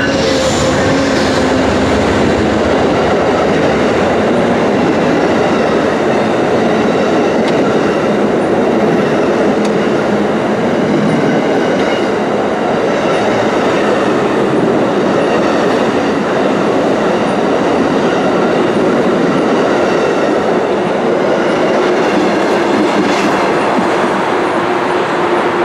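Amtrak passenger train 449 passing close by, its steel wheels running steadily and loudly on the rails.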